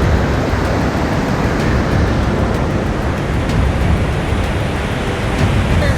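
Steady rushing of fast-flowing water in a swollen stream running over a washed-out road.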